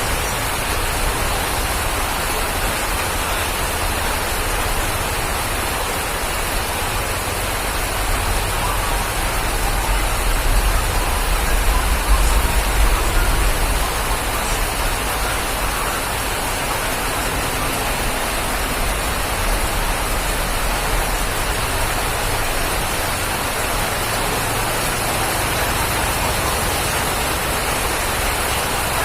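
Steady rain, an even hiss with no pauses, with a low rumble that swells for a few seconds around the middle.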